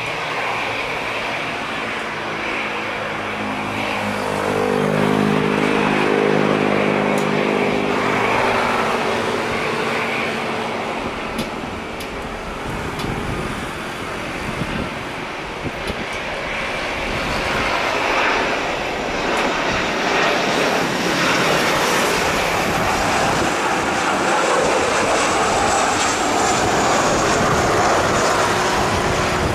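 Boeing 747-300 freighter's four jet engines on landing: loud, steady engine noise that swells and ebbs as the jet passes, with a thin high whine slowly falling in pitch near the end.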